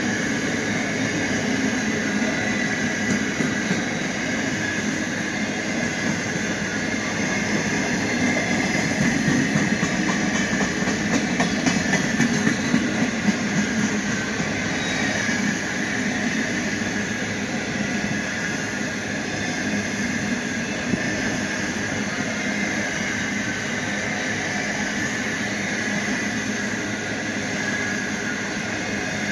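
Empty grain wagons of a freight train rolling past, a steady rumble of wheels on rail that swells in the middle with a run of wheel clicks.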